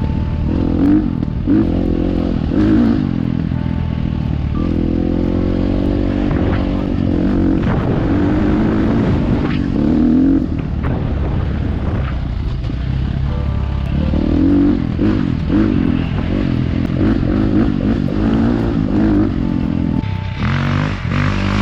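Dirt bike engine running under load on a trail ride, its pitch rising and falling again and again as the throttle is opened and closed and the gears change.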